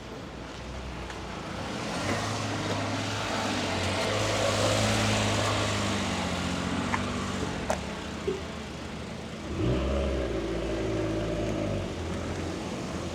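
A car passes close by, its engine and tyres swelling and fading. About ten seconds in, a second vehicle's engine comes up suddenly.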